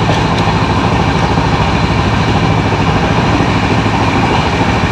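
Passenger train coach running: a steady, loud rumble and rattle heard from inside the carriage.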